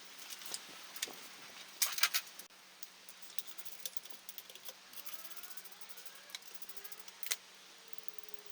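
Scattered metallic clinks and rattles, with a small cluster about two seconds in and a sharp single clink near the end.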